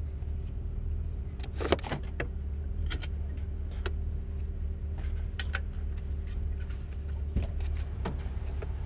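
Camaro engine idling steadily, heard from inside the cabin, with scattered clicks and light metallic rattles as the driver takes off his helmet and undoes his belts. The loudest click comes about two seconds in.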